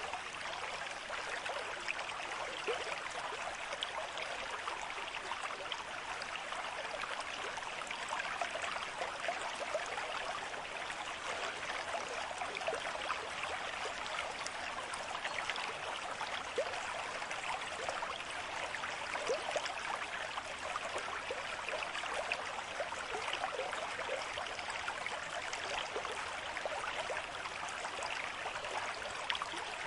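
A stream running steadily, a dense continuous babble of small splashes and trickles.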